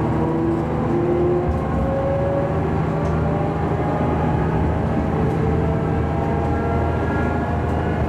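Diesel railcar running along the line: a steady low engine drone under rolling wheel-and-rail noise, with faint whines slowly rising in pitch.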